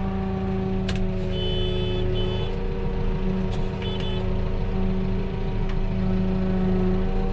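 Tractor engine running steadily at an even speed, with a few brief high-pitched squeaks in the first few seconds.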